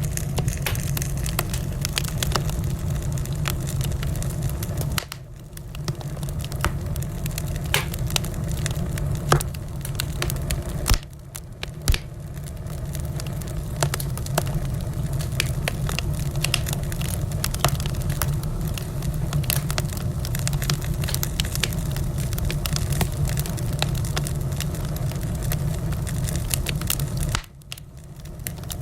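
Wood fire in a fireplace crackling, with dense small crackles and a few louder pops over a steady low rumble. The level dips briefly three times.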